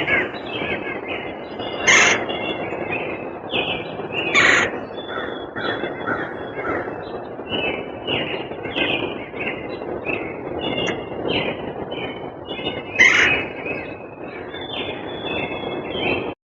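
Several songbirds chirping and calling in quick, overlapping succession, with three louder, harsher calls spread through; the sound cuts off abruptly just before the end.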